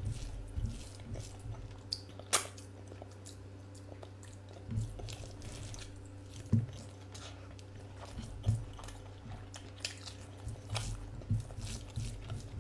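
A person eating a curry meal: chewing and biting, with scattered short mouth clicks and smacks over a steady low hum.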